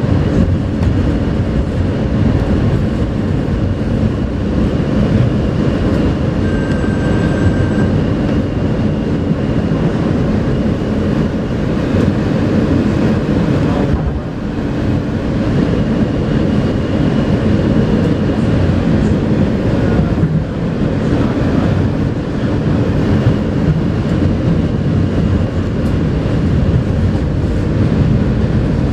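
R160A New York City subway car running between stations, heard from inside the car: a steady rumble of wheels on rail and running gear, with faint high whines coming and going. A brief high tone sounds about seven seconds in.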